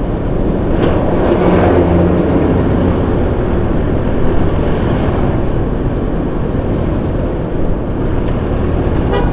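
Steady road noise of a vehicle travelling through city traffic: engine hum under a constant rush of wind and tyre noise.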